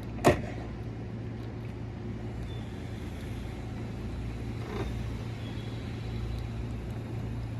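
JR West 221 series electric train humming steadily at the platform, with one sharp knock just after the start and a fainter one near five seconds in.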